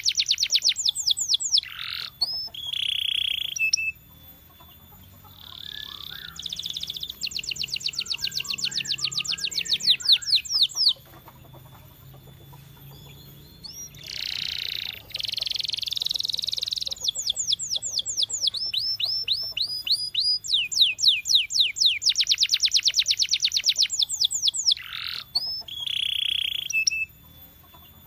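Canary singing: fast, high trills of rapidly repeated sweeping notes in several phrases, broken by short pauses and a few held, buzzier notes.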